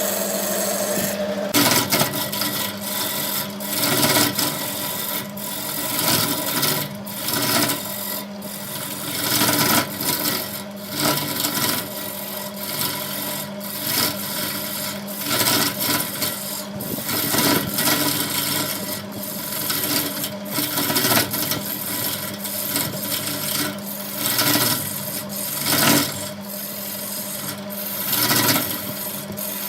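Wood lathe running with a steady motor hum while a tool scrapes against the spinning wood in irregular strokes, starting about a second and a half in.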